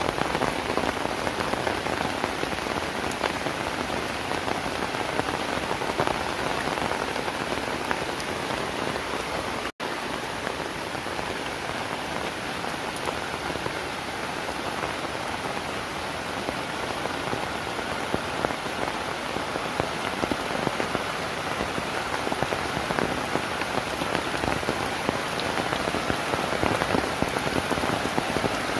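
Heavy rain falling steadily, a dense patter of drops striking surfaces. The sound cuts out for a split second about ten seconds in.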